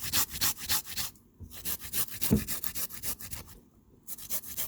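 Food being grated by hand on a metal grater: quick rasping strokes, several a second, with two brief pauses and a dull knock about two seconds in.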